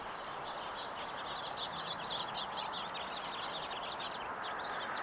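A small bird chirping rapidly, several short high notes a second, over steady background noise.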